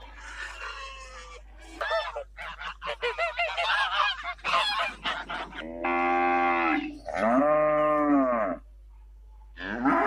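Cows mooing: two long moos of about a second each, around six and seven and a half seconds in, with another starting near the end. Before them, a run of short, quick animal calls that rise and fall in pitch.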